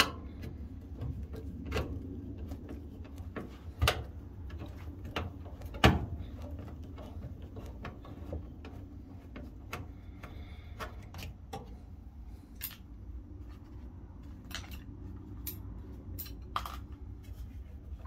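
Screwdriver working a screw out of an LG dryer's sheet-metal front panel: scattered small metallic clicks and ticks, with two louder knocks about two seconds apart near the middle.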